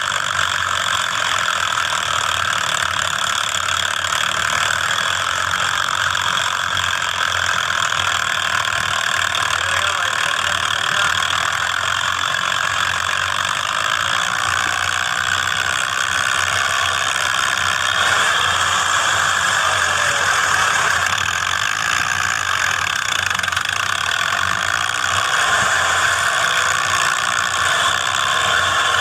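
Preet tractor's diesel engine running steadily.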